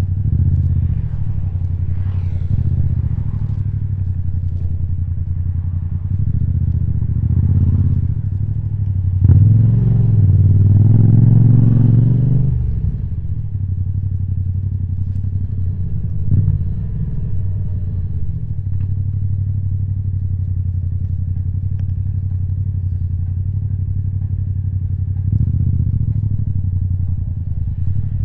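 Yamaha MT-07's parallel-twin engine running through an Akrapovic titanium exhaust, a steady low note. About nine seconds in the revs climb and it gets louder for a few seconds, then it settles back to a steady low run.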